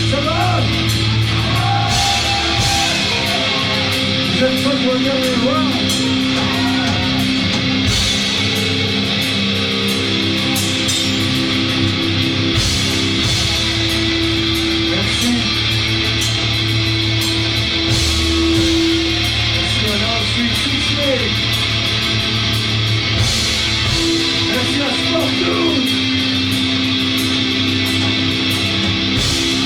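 A live rock band playing loud, steady music: distorted electric guitar with sustained, bending notes over bass and drums.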